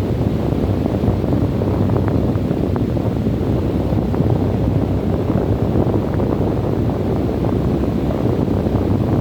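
Desert wind blowing steadily: a deep, unbroken rush with no let-up, with a few faint ticks in it.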